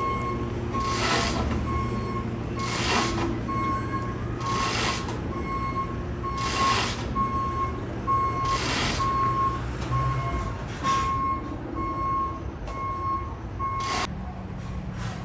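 Heavy vehicle's reversing alarm beeping evenly, about two beeps a second, over a low steady rumble, with a short rushing hiss about every two seconds. The beeping stops suddenly near the end.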